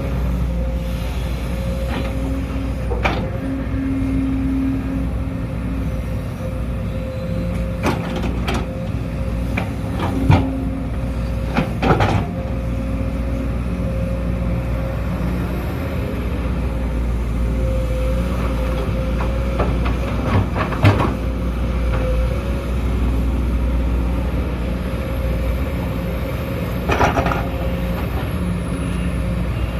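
Sumitomo SH210 excavator's diesel engine running steadily under a constant whine, with a sharp knock or clank every few seconds.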